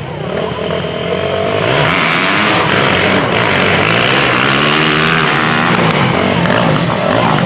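Engines of 226 to 450 cc drag motorcycles running and revving, pitch climbing and falling several times. The sound gets louder about a second in.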